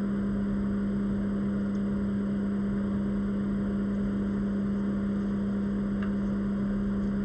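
Steady low hum with a faint hiss, unchanging in pitch and level.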